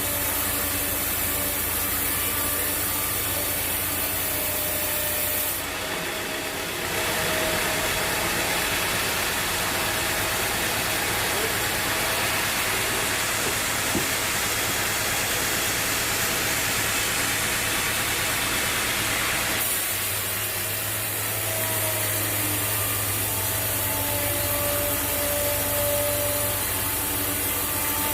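Sawmill running, its blade cutting through a teak log with a steady machine noise that changes abruptly about six seconds in and again near twenty seconds.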